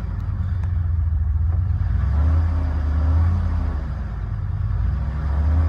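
A Chevrolet 5.3-liter V8 is running and revved up twice, about two seconds in and again near the end, each time rising and settling back to idle. It has a deep, throaty exhaust note.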